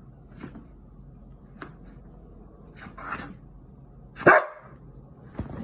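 Dutch Shepherd dog giving a single loud bark about four seconds in, after a few softer, shorter sounds.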